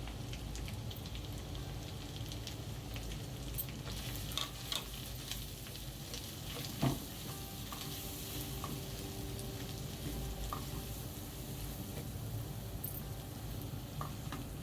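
Food sizzling in a frying pan as it is stirred, with a few scrapes and clicks of the utensil against the pan and one louder knock about seven seconds in.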